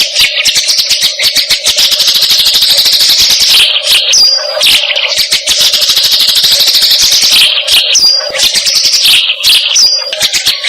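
Masteran tutor recording of bird and insect calls used to teach songbirds: a loud, rapid, dense ticking trill with short high chirps, the same passage repeating every few seconds.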